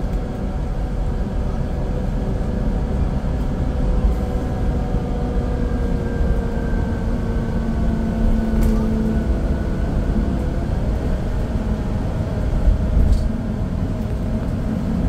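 Scania K410IB coach under way: the engine runs steadily over low road rumble, and its note slides down about halfway through as the bus eases off.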